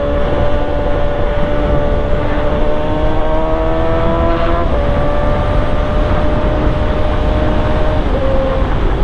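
Yamaha R1 sport bike's inline-four engine pulling steadily under throttle at speed, its pitch slowly rising, with a brief break in pitch about halfway and again near the end. Heavy wind rush on the rider's microphone underneath.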